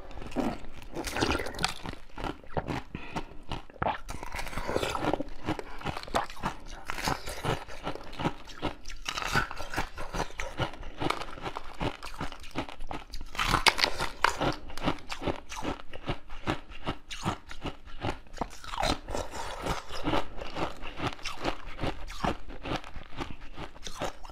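Close-miked biting and chewing of a glossy green, dumpling-shaped food: a dense, continuous run of sharp clicks and crackles of mouth and eating sounds.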